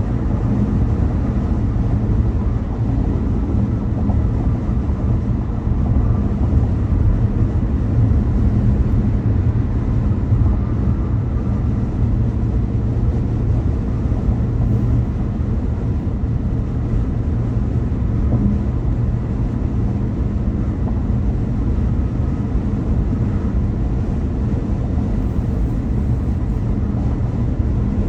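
Steady low rumble of a car driving, mostly tyre and road noise with the engine underneath, holding even throughout with no sudden sounds.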